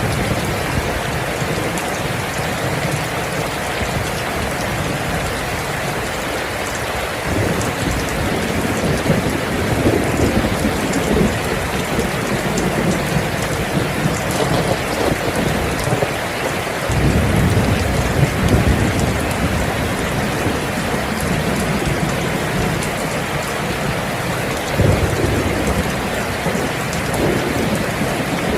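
Steady heavy rain, with low rumbles of thunder swelling in about a quarter of the way through, again just past halfway, and once more near the end.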